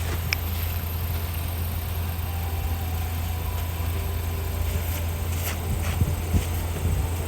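A vehicle engine idling with a steady low hum, with a few faint knocks a little past the middle.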